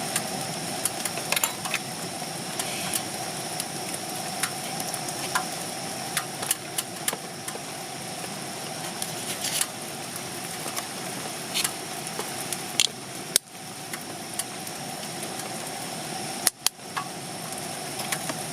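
Portable cassette gas stove burner running with a steady hiss, with scattered sharp pops and clicks throughout. The stove is being tilted to keep its weak flame going.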